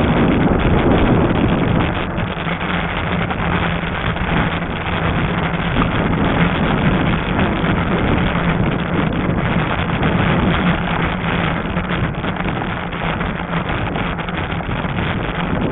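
Wind buffeting the microphone as a Lectric XP fat-tire e-bike rides along a trail, a dense steady rush with a faint low hum underneath.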